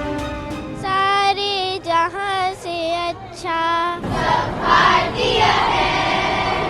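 A child's voice singing sustained, wavering notes over background music. About four seconds in it gives way to a louder, noisier stretch of several voices together.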